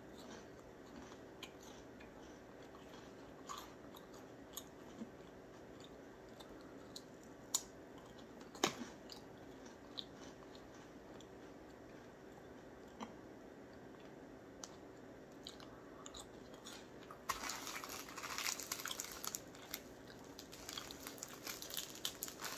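Chewing a Club cracker close to a sensitive microphone: scattered small crunches and mouth clicks. About three quarters of the way through, the crackers' plastic sleeve crinkles as it is picked up and handled.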